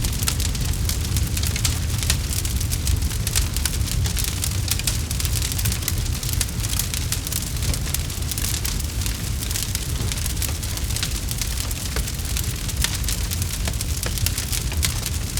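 Campfire crackling: many quick pops and snaps, dense and irregular, over a low steady rumble.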